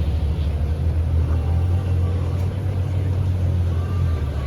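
Steady low rumble of a road vehicle, even in level throughout.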